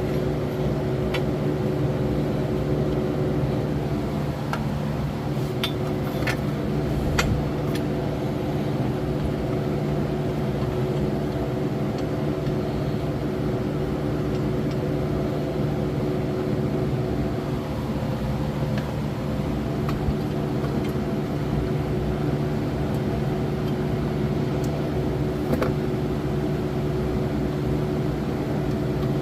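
Steady mechanical hum from a running machine, with a few light clicks and taps, about 1, 6, 7 and 25 seconds in.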